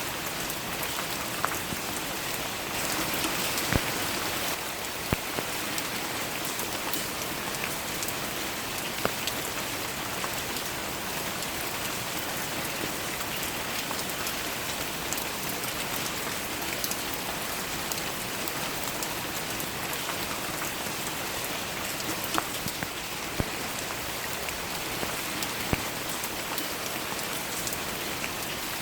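Steady rain falling, an even hiss with scattered sharp taps of individual drops landing close by; it swells briefly a few seconds in.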